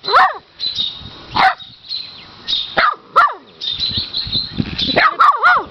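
Puppy barking in short, high yips, about six of them with gaps between, three coming in a quick run near the end.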